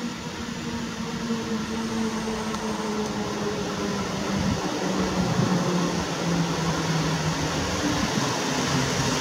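EP09 electric locomotive pulling a passenger train into a station: a steady hum of running gear and motors that grows louder as it approaches, with humming tones that slowly fall in pitch as the train slows.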